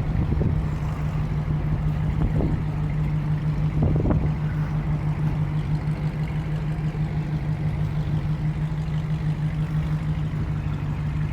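Car engine idling with a steady low hum, with a few brief faint sounds over it in the first four seconds.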